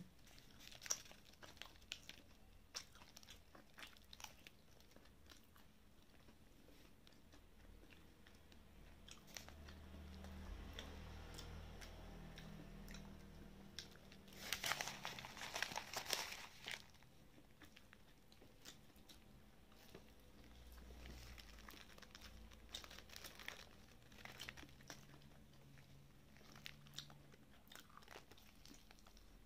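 Biting into and chewing a crisp-breaded Taiwanese fried chicken cutlet (jipai): small crackling crunches throughout, with one louder burst of crunching about halfway through.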